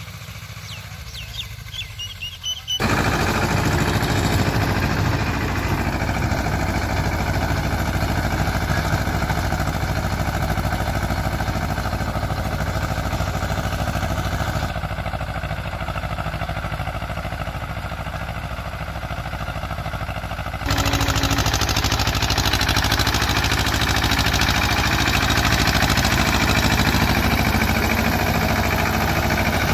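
Escort 335 tractor's diesel engine running steadily, starting loud suddenly about three seconds in after a quieter opening. The higher part of the sound drops away about halfway through and returns abruptly about two-thirds of the way through.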